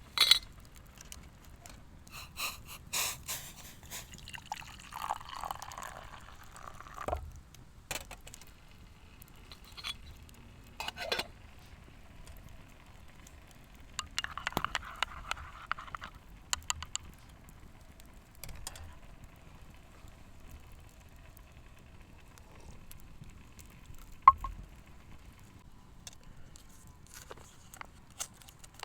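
Liquid being poured twice, each pour lasting a couple of seconds, with scattered clinks and knocks of cookware handled in between.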